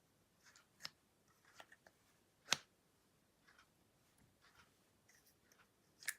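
Store-bought slime being mixed and pressed by hand, giving faint scattered sticky clicks and pops, with one sharper click about two and a half seconds in and a quick cluster near the end.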